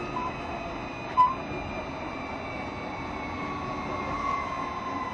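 Onboard running sound of a JR Shikoku 7200 series electric train slowing down: the traction motors whine in thin tones that slowly fall in pitch as it brakes, over the rumble of the wheels on the rails. A short sharp click about a second in.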